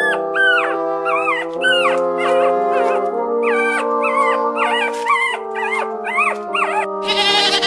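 An animal's short, high whining calls, repeated about twice a second, each rising and then falling in pitch, over sustained background music.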